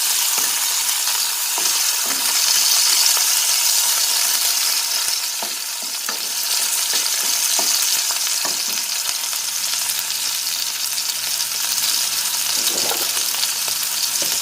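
Garlic, onion, ginger and chicken pieces sizzling steadily as they brown in hot oil in a pan, stirred now and then, with scattered short taps and scrapes of the utensil.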